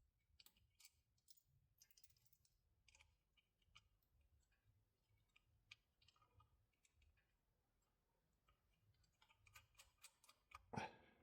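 Near silence with scattered faint clicks and ticks, and one brief, louder noise near the end.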